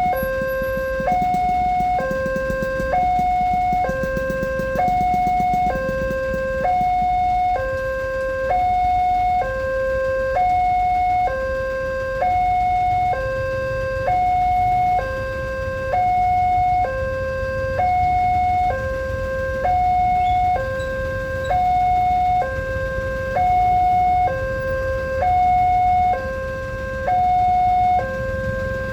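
Railway level-crossing warning alarm sounding, an electronic two-tone signal that swaps between a low and a higher tone about every 0.8 seconds, warning that a train is approaching or passing. A low rumble runs underneath.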